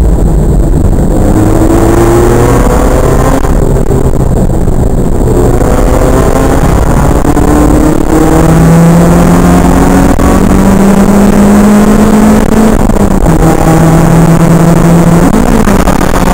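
Toyota AE86's stock twin-cam 1.6-litre four-cylinder engine heard from inside the cabin under hard acceleration, its pitch climbing over the first half, then held at a high steady note along the straight with a brief dip and recovery near the end. The recording is distorted.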